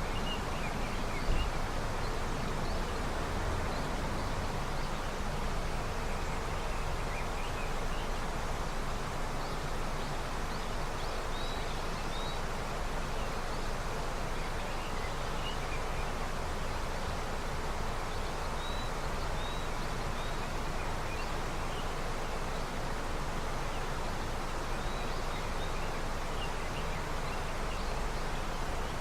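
River swollen with early snowmelt, a steady rush of flowing water, with faint short bird chirps now and then and one brief tap just over a second in.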